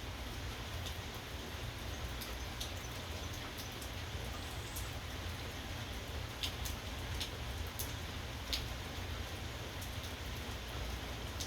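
Steady rainfall with a low rumble underneath. Scattered sharp ticks of single drops hitting a surface come at irregular intervals, more of them in the second half.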